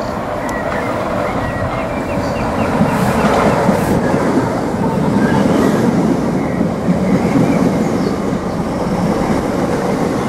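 Electric multiple-unit passenger train running along the platform: a steady rumble of wheels on the rails that swells about three seconds in and stays loud.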